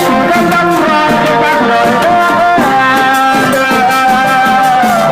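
Thai trae wong brass band playing: horns holding and moving between notes of a melody over drums and a steady pattern of cymbal strikes.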